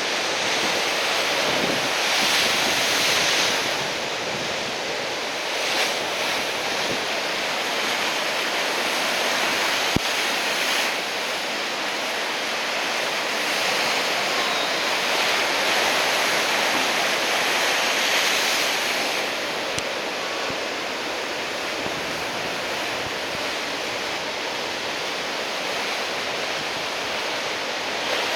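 Heavy ocean surf from a typhoon swell breaking and washing in a continuous rush that swells every few seconds, with wind buffeting the microphone. A single sharp click about ten seconds in.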